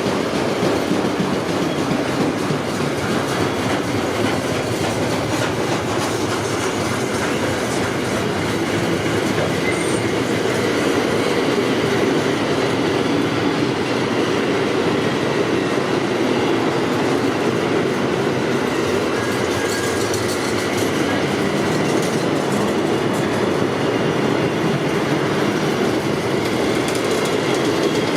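Long freight train's wagons rolling steadily past, a continuous rumble of steel wheels on rail with clickety-clack over the rail joints and a faint wheel squeal.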